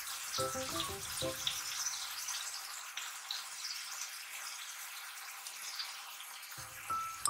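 Meat sizzling in a frying pan, a steady crackling hiss. Soft background music notes sound briefly near the start and again near the end.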